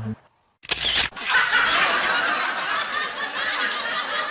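Laughter that starts about a second in, after a brief gap and a short burst, and carries on steadily.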